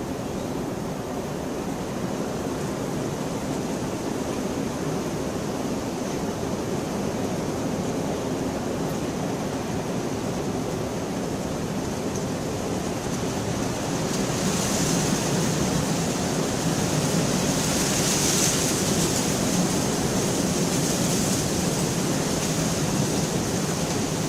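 Steady heavy rain, a continuous even hiss, growing louder and heavier about halfway through.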